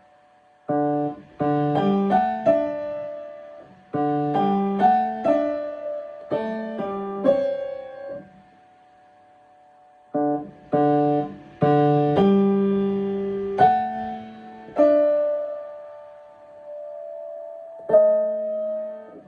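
Piano played in short phrases of chords and melody notes, stopping twice: a short silence about eight seconds in, and a held chord left to ring out before a final chord near the end.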